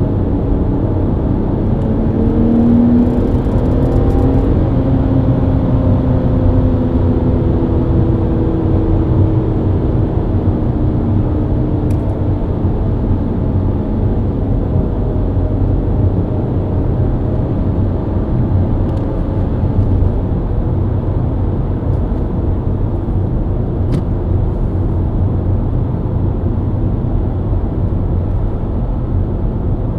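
BMW E90 323i's inline-six engine running under way over steady tyre and road rumble; its note climbs for about two seconds a couple of seconds in as the car accelerates, then eases back down slowly into a steady cruise.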